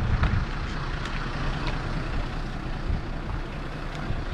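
A large vehicle, the tour bus, running close by: a steady low engine rumble with a few faint clicks.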